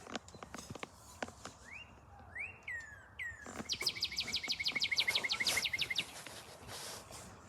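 A songbird singing: a few slurred whistled notes, then a fast, even trill of about fifteen notes lasting a couple of seconds. A few faint clicks come before the song.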